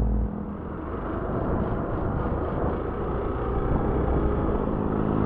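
Motorcycle on the move: a steady rumble of wind noise on the microphone over the engine running.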